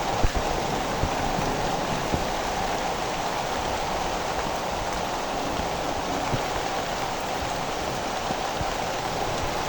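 Steady rain falling, with a few louder drops standing out.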